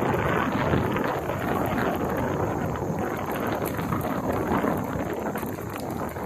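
Bicycle jolting over rough, uneven ground: a constant dense rattle and crunch of tyres and frame, mixed with wind buffeting the microphone.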